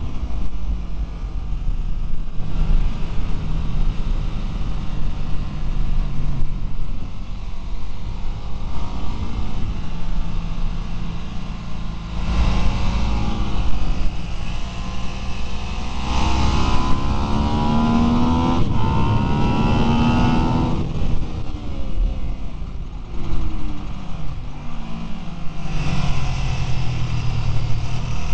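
Ducati 999 V-twin sportbike engine heard on board at track speed, under a steady rush of wind. Through the middle the revs climb hard, with a short break for an upshift; then they drop and jump through several downshifts, and climb again near the end.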